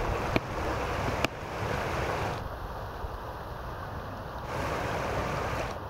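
Swollen river in flood rushing past in a steady noise, with wind buffeting the microphone.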